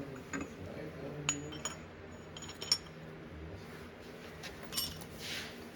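Sharp metallic clinks of steel parts and hand tools being handled during tractor transmission teardown, a handful of separate strikes with the loudest about two and a half seconds in.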